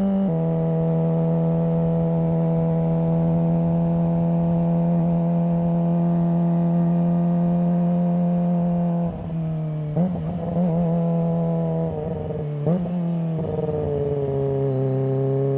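Kawasaki ZX-25R's 250 cc inline-four running through its exhaust under way, holding a steady note after a drop in pitch at the start. About nine seconds in the throttle eases, the note wavers with two short blips, then settles steady at a lower pitch.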